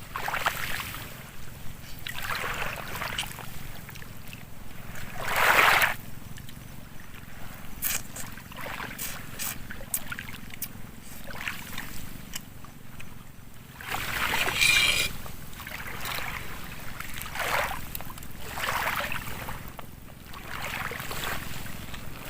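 Small waves washing in, each a rush of water about a second long, coming every few seconds, with a few sharp clicks between them.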